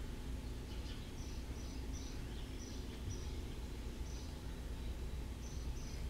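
A small bird chirping in short, high notes repeated at irregular intervals, over a steady low outdoor background rumble.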